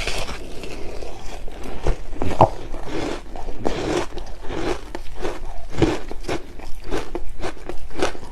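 Close-miked eating of flavoured shaved ice with passion fruit: chewing and a quick, irregular run of small crisp crunches.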